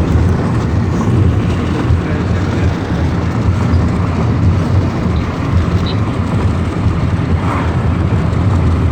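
Steady road and engine rumble inside the cabin of a moving Lada Kalina 2 station wagon, a dense low drone with no distinct events.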